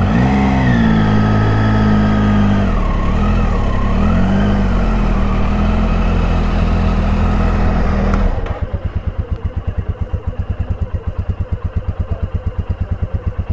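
Motorcycle engines running: one engine runs loudly, its pitch rising and falling a couple of times. About eight seconds in it drops away abruptly, leaving another engine idling with an even pulsing beat.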